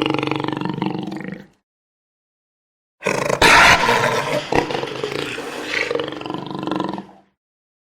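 Jaguar roaring: one call fades out about a second and a half in, then after a short silence a second, louder call runs for about four seconds.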